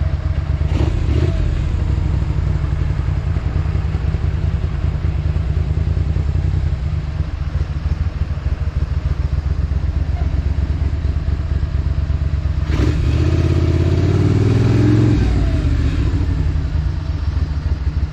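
1978 Moto Guzzi 850 Le Mans's air-cooled 90-degree V-twin running with a steady low pulse. About thirteen seconds in, the revs climb for a couple of seconds, then drop back.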